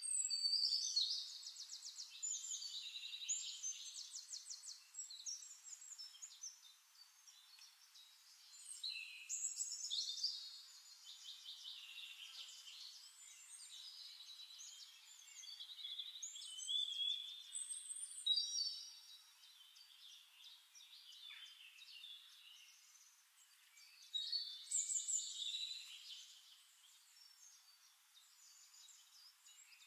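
Birds singing: phrases of rapid high trills and chirps that come in bursts, loudest right at the start and again about nine, seventeen and twenty-five seconds in. The sound is thin, with no low end.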